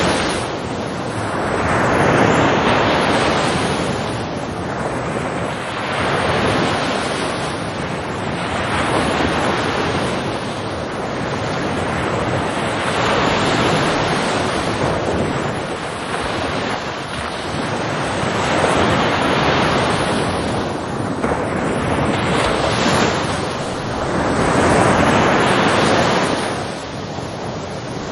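Ocean surf: waves washing in one after another, the rushing noise swelling and falling back about every three seconds.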